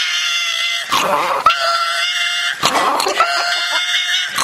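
Dog making long, high-pitched drawn-out cries, three in a row with short breaks, each lasting over a second. It is an angry protest at being handled for ear medicine.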